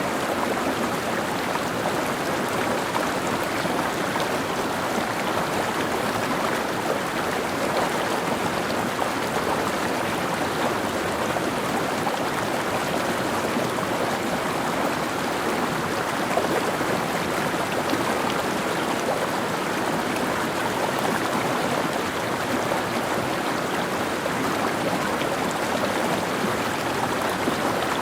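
Mountain stream running over rocks, a steady rushing and babbling of water.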